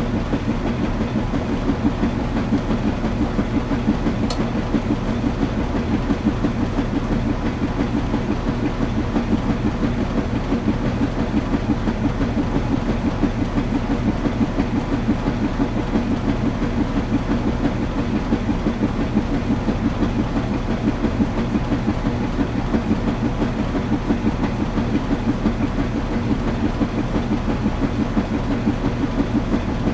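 Washing machine running: a steady low hum with a fast, even, repeating pulse as the drum turns.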